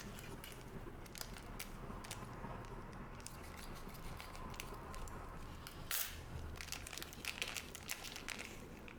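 Trading card booster pack wrappers crinkling and being torn open, with a short rip about six seconds in followed by a run of small crackles and clicks.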